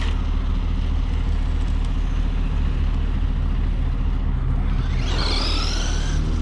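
A steady low engine-like hum, like a vehicle idling, with a brief higher whine about five seconds in.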